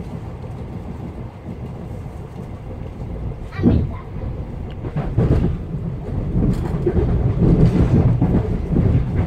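Interior running noise of a Class 707 Desiro City electric multiple unit at speed: a steady low rumble that turns louder and rougher about a third of the way in, with one sharp knock at that point.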